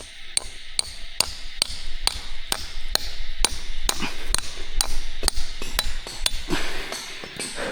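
A steady series of sharp taps or knocks, about two and a half a second, dying away near the end.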